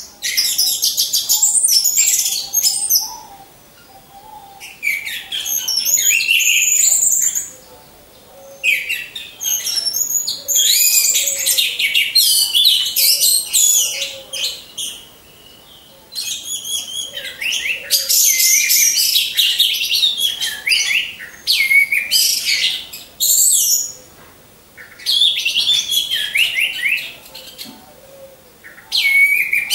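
Orange-headed thrush (anis merah) singing loud, fast, varied high-pitched song in bouts of a few seconds with short pauses between them.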